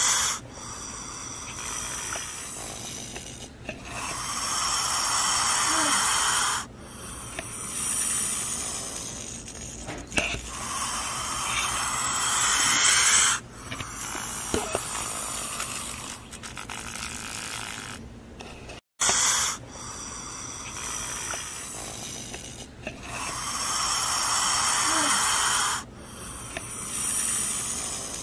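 Snake hissing over and over: long breathy hisses, each two to three seconds, rising and falling one after another, with a brief break about two-thirds of the way through.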